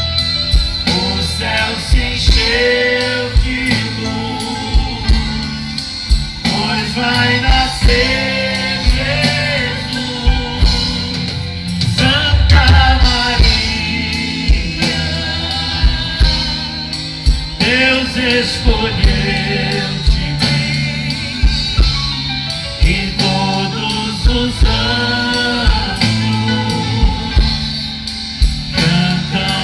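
Live band music from a Catholic gospel-pop ballad, with a steady drum beat under a sung melody line.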